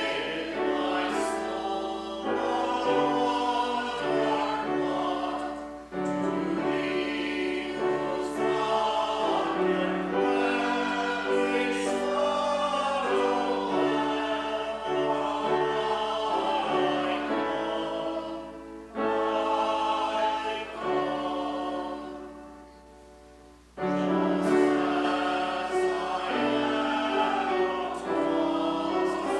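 Congregation singing a hymn with organ accompaniment, in held phrases with a short pause between verses about three-quarters of the way through.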